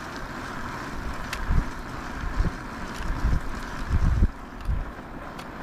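Wind buffeting the camera microphone in irregular low gusts over a steady background hiss, the strongest gust about four seconds in.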